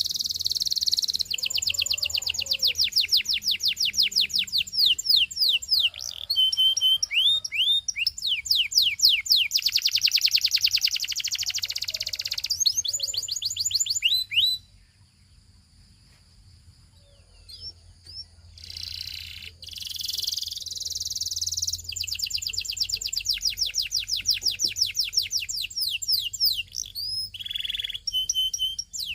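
Belgian singing canary in full song: long rolling trills of fast repeated sweeping notes, broken by a pause of a few seconds about halfway through before the song starts again.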